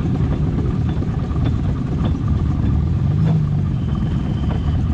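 A steady low engine rumble, with a few faint clicks and a brief thin high tone near the end.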